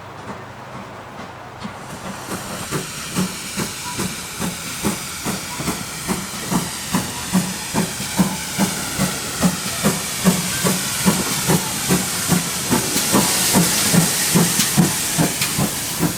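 Steam locomotive pulling away, its exhaust beats starting about two seconds in at roughly two and a half a second over a steady hiss of steam, growing louder and slightly quicker as it works harder.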